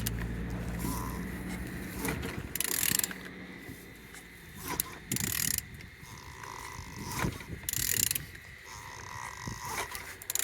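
YA10ORS engine being turned over by hand with a ratchet wrench, the ratchet clicking, with four short hisses about every two and a half seconds as it turns.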